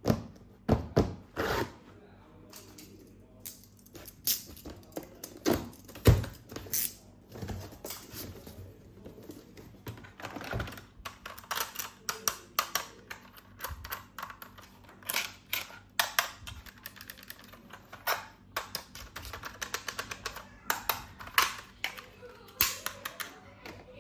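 Irregular sharp plastic clicks, taps and knocks, coming in quick runs in places, from plastic toys and their packaging being handled and unboxed.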